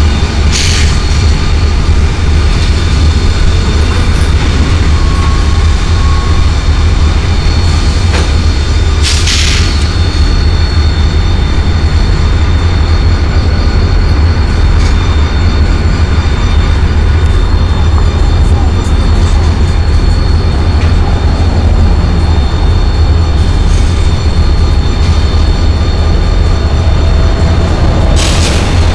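Freight train rolling past below on the rails: a steady, loud low rumble with thin, high wheel-squeal tones over it, and short bursts of high hiss about nine seconds in and again near the end.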